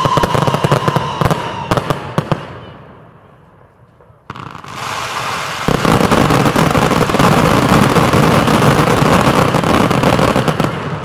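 Fireworks going off: rapid sharp cracks with a steady whistling tone that fade to a lull after about two seconds. About four seconds in, a new barrage starts suddenly and swells into a dense, continuous crackling from a big ground-level finale effect, easing off near the end.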